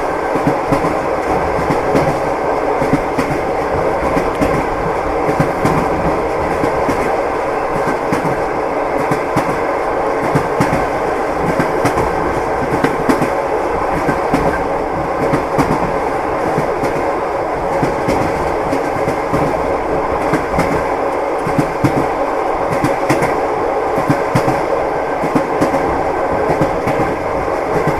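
Train wheels clattering over the rail joints: a steady rolling rumble of the railway carriage with frequent irregular clicks and knocks.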